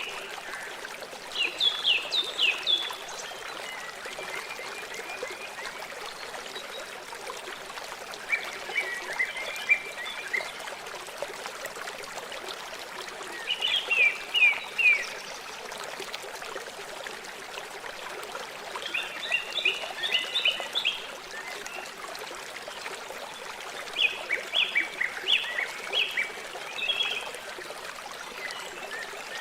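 River water flowing steadily, with a bird calling over it in five short phrases of quick, high chirps spaced a few seconds apart, louder than the water.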